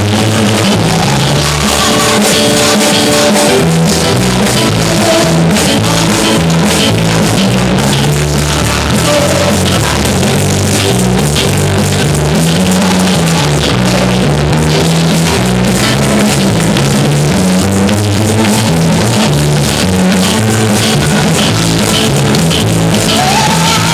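Full band music with drum kit, a moving bass line and guitar, loud and steady. A rising held note comes in near the end.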